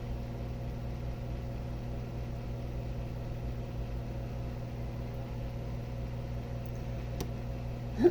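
Steady low hum with a faint hiss, unchanging throughout: background room hum from an appliance or electrical source.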